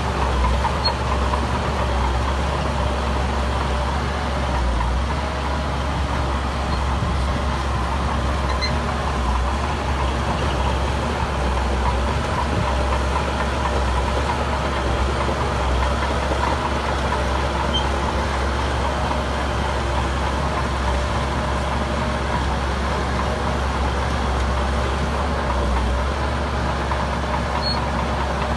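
Diesel engine of heavy earthmoving machinery running steadily, with a deep low rumble and no change in engine speed.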